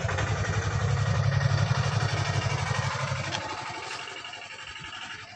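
A vehicle engine runs with a steady low hum that fades away over the last couple of seconds.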